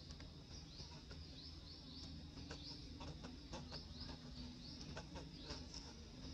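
Faint bird chirping in the background: short, high, rising chirps repeated a couple of times a second, over a low steady rumble with a few light clicks.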